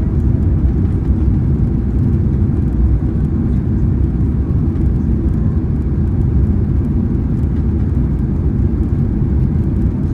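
Steady in-flight cabin noise inside a Boeing 767-300ER: an even, low rumble of the jet engines and airflow over the fuselage, with no changes.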